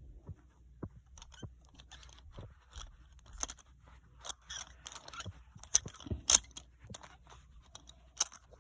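Irregular small clicks, taps and scraping as toy train engines are handled and turned over, with the sharpest clicks a little past six seconds and again near the end.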